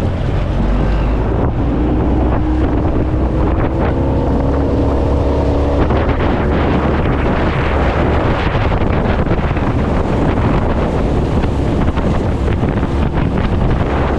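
A small fishing boat's motor running under way, with wind buffeting the microphone; a faint whine climbs gently in pitch for the first few seconds as the motor speeds up.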